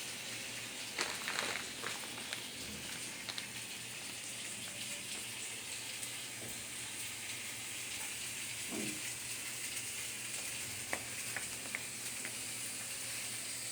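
Steady hiss with a few light clicks, and one short faint cry about nine seconds in.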